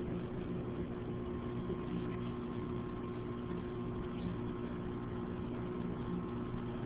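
A steady mechanical hum, several unchanging tones over an even background hiss.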